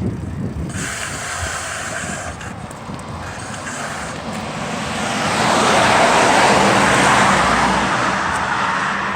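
A motor vehicle passing close by: its tyre and engine noise swells about five seconds in and fades again, over steady road noise.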